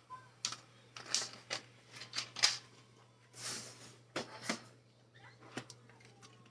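Light clicks and knocks of items being handled on a kitchen counter, irregular through the first five seconds, with a brief rustle or hiss about three and a half seconds in.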